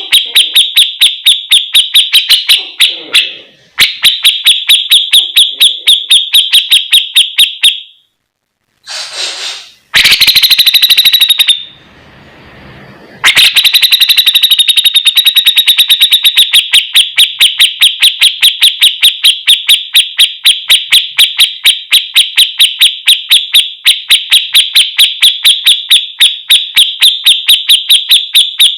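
Grey-cheeked bulbul (cucak jenggot) giving its 'besetan' call: a fast, evenly spaced run of sharp, high repeated notes. It breaks off for a few seconds about a third of the way in, then resumes and keeps going.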